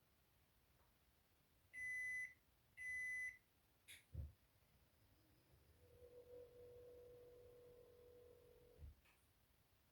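Washing machine's electronic control panel beeping twice, each beep about half a second long, followed by a couple of clicks. A low steady hum then runs for about three seconds and ends in a soft thud.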